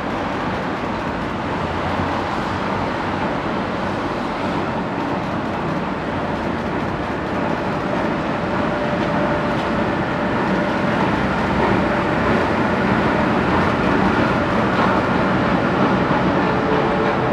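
A rail vehicle running along the track: a steady rumble that builds slowly, with faint whining tones coming in during the second half.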